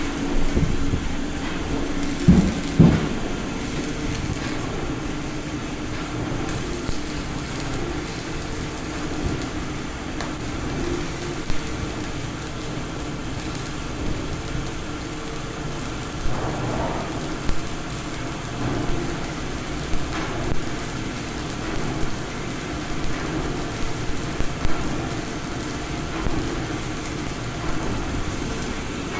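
Welding on a steel heat exchanger: a steady crackling hiss over an ongoing machine hum, broken by a few sharp metallic knocks, two close together near the start and several more in the second half.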